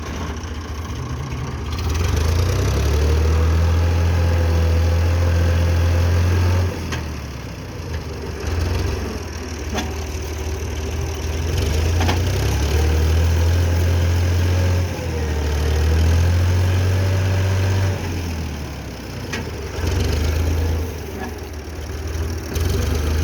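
Tractor's diesel engine running under load, revving up hard and easing off several times, as the stuck tractor strains to pull free.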